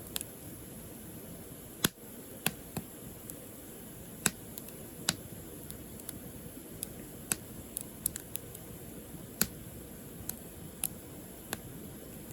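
Firewood burning, crackling with irregular sharp pops over a steady low rush of the flames; the loudest pop comes about two seconds in.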